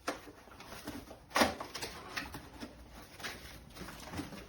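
Crinkling and crackling of gift packaging being handled and torn open, in scattered short bursts, the sharpest crackle about a second and a half in.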